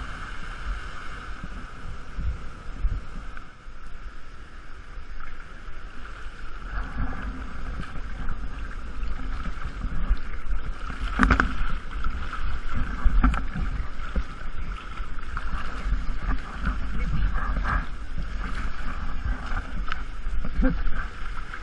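Rushing waterfall water with a heavy low rumble of wind buffeting the microphone, broken by scattered splashes and knocks. One louder strike comes about halfway through.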